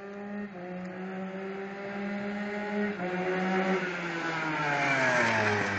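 Go-kart's Yamaha Blaster 200 two-stroke single-cylinder engine running under way. Its pitch holds steady, then falls over the last two seconds while the sound grows to its loudest, with a rushing noise.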